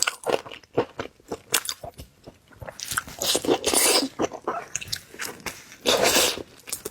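Close-up chewing of a large mouthful of seafood: rapid wet clicks and crunches, growing denser and louder about halfway through and again near the end.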